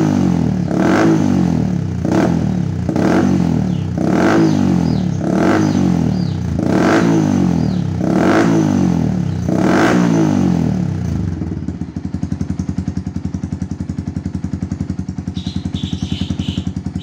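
Yamaha R15's single-cylinder four-stroke engine breathing through a stainless-steel Smoke Muffler M1 short racing exhaust. The throttle is blipped about nine times, each rev rising and falling back quickly. About eleven seconds in the engine settles to a steady idle.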